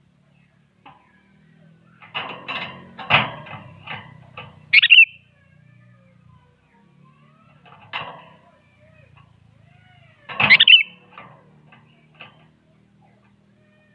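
Sooty-headed bulbul (kutilang) calling fast and harshly in bursts: a quick run of notes about two seconds in, a sharp bright chirp around five seconds, another call near eight seconds and a loud call about ten and a half seconds in, with a few softer notes after. A faint steady low hum runs underneath.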